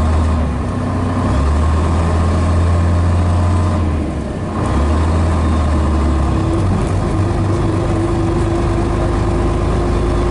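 Scania Metropolitan double-decker bus's Scania DS11 diesel engine running steadily, with a strong low note. The note drops away briefly twice, and in the second half a steady whine comes in above it.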